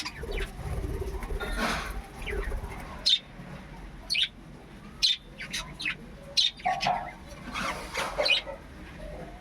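Budgerigars chirping in short, scattered calls, with a few sharp clicks in between.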